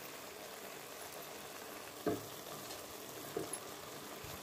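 Okra masala fry sizzling quietly and steadily in a pan on low flame. A wooden spatula stirs it, knocking against the pan briefly about two seconds in and again a little over three seconds in.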